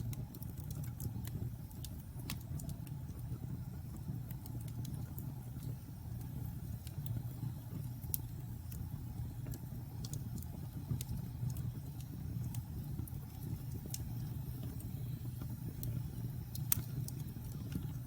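Wood fire burning in a fireplace: a steady low roar with scattered sharp crackles and pops throughout, one louder pop near the end.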